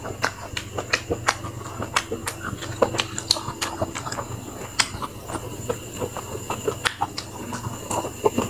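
Close-up wet chewing and lip-smacking while eating grilled sausage: a steady run of sharp, irregular mouth clicks.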